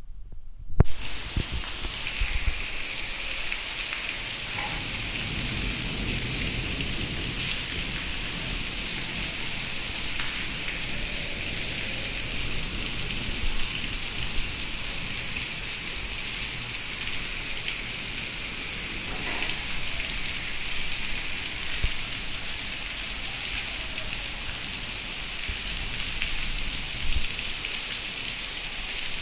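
Heavy rain pouring down in a steady hiss. It starts abruptly about a second in.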